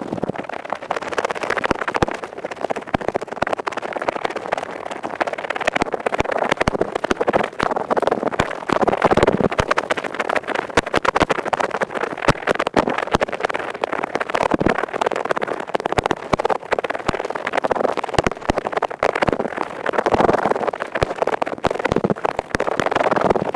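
Ear pick scraping rapidly and continuously, a dense, crackly scratching made of many fine clicks that swells and eases every few seconds.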